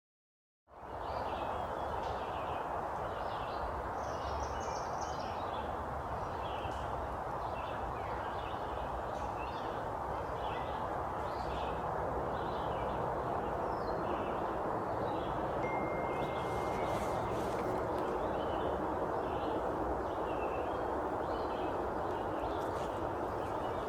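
Birds chirping in short, repeated calls over a steady rushing background noise that starts about a second in.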